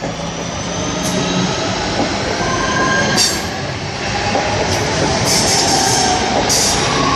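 Passenger train moving along the tracks, its steel wheels squealing on the rails in several short high squeals over a steady running rumble that grows louder.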